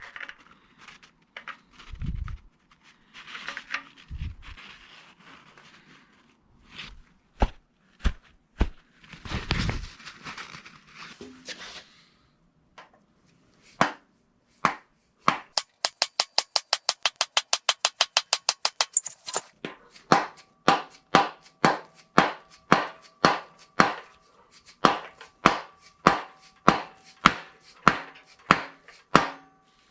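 Hand-tool work on metal: a few seconds of rapid, even clicking about halfway through, then a steady run of sharp metal strikes about two a second, each ringing at the same pitch, like a hammer striking a steel part.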